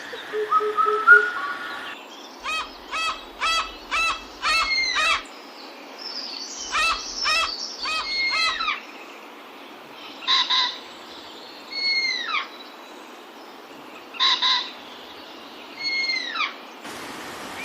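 Tropical forest birds calling: quick runs of short, ringing notes, then paired calls each followed by a downward-sliding whistle, repeated about every two seconds.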